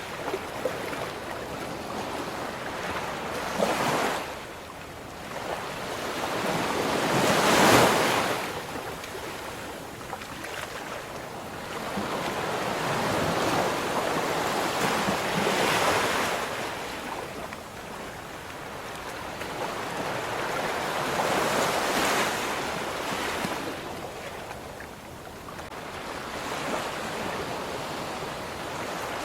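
Ocean waves breaking and washing on a shore, a steady surf hiss that swells every several seconds, loudest about eight seconds in.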